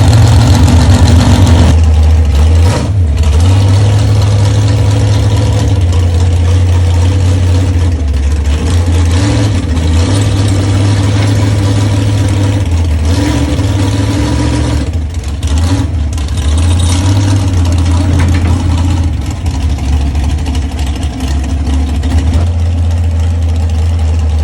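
Large truck engine running loudly with a deep, steady rumble, dipping briefly a few times.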